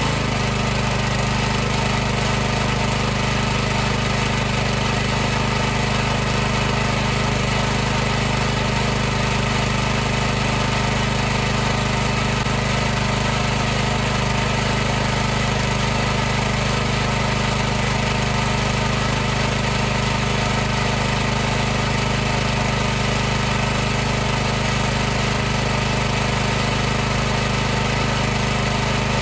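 High-pressure washer pump running steadily, with a constant low motor hum under an even hiss.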